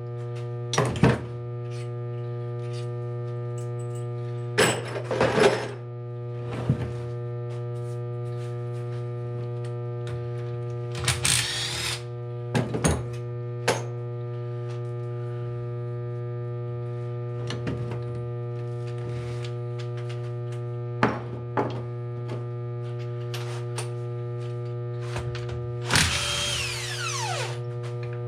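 Metal hand tools and engine parts clanking and knocking at irregular intervals during disassembly of a 1981 Honda CB900F engine, with a longer scraping clatter and a falling squeal near the end, over a steady electrical hum.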